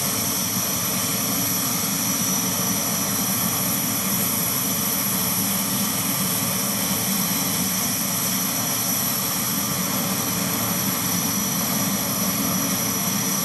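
Jet truck's turbine engine running steadily, an even roar with a constant high-pitched whine over it.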